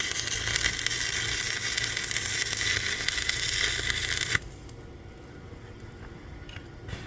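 Electric arc welding on the steel of a backhoe, a steady crackling sizzle of the arc that cuts off abruptly about four seconds in, leaving only a few faint clicks.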